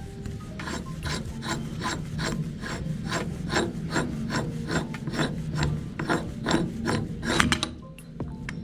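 Meat grinder grinding, with a rhythmic scraping, rasping sound about three strokes a second over a steady low hum.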